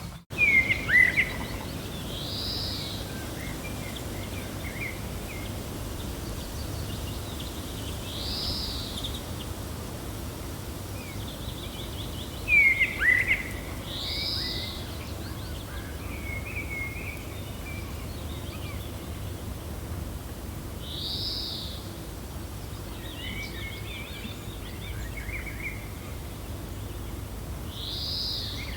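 Birds chirping over a steady low wind: one high, arched call repeats about every six seconds, five times in all. Louder, downward-sweeping chirps come about a second in and again about thirteen seconds in.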